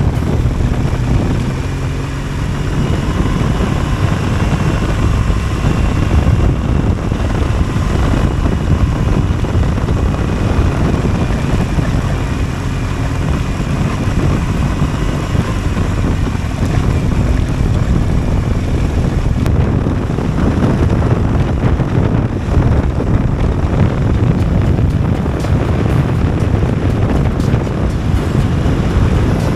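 Motorcycle engine running while riding, with steady wind rushing over the microphone.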